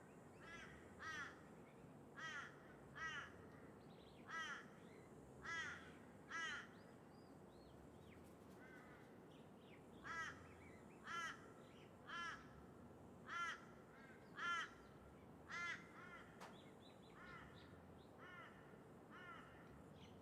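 A crow cawing repeatedly, about one harsh caw a second, in two runs of six or seven calls with a short pause between them; fainter answering caws follow near the end. Under the calls runs a steady low background noise.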